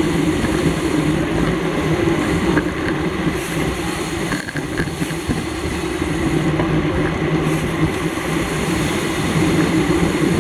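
Steady rush of wind and rolling road noise from a road bicycle moving at race speed.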